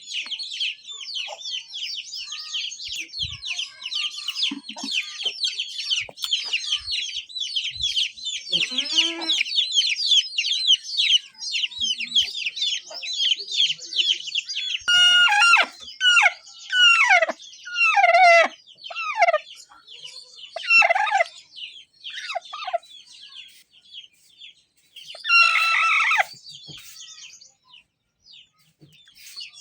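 Chickens calling: dense, rapid high-pitched peeping and chirping for about the first half, then a series of louder, separate calls that fall in pitch, and a longer call a few seconds before the end.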